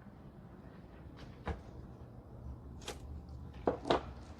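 A few short knocks and clunks of supplies being handled and set down, about four in all with two close together near the end, over a low steady hum.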